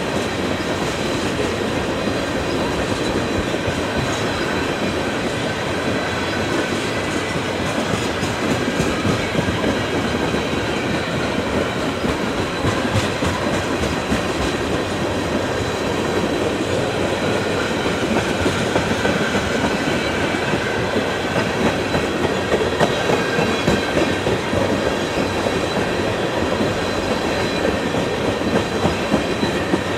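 Train cars rolling past with steady wheel-on-rail noise and a constant clickety-clack of wheels over the rail joints. A faint, steady high squeal from the wheels runs under it.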